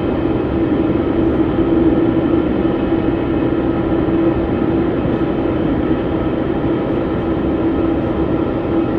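Jet airliner's engines running loud and steady: a constant droning tone over a rushing noise, with no rise or fall in pitch or level.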